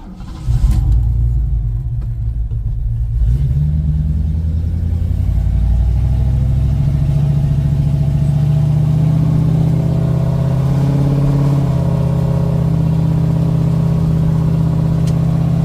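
1972 Ford Mustang Mach 1's V8, breathing through a loud Black Widow Race Venom muffler on a single 3-inch exhaust, accelerating about half a second in, its note climbing over the next few seconds, then running steadily at cruise.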